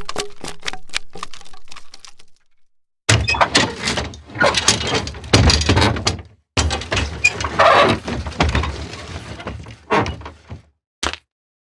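Impact sound effects: a quick run of evenly repeated knocks fading away, then two long crashing sequences of many breaking, tumbling impacts with heavy low thuds, and one short hit near the end.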